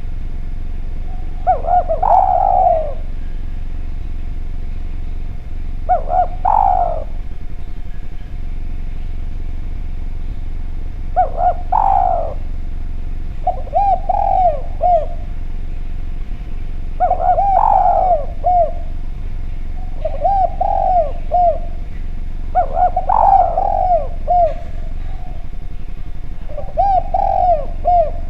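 Spotted dove (derkuku) cooing: a phrase of several rolling coos every three to five seconds, about eight phrases in all, over a steady faint hum.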